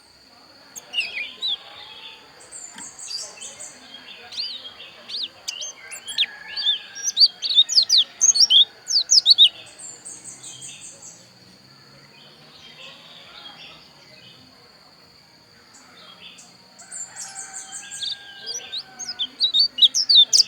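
Pleci dakun white-eye singing: two bouts of rapid, high twittering chirps, one starting about a second in and one near the end, separated by a quieter stretch, with short buzzy high trills mixed in and a steady thin high tone underneath.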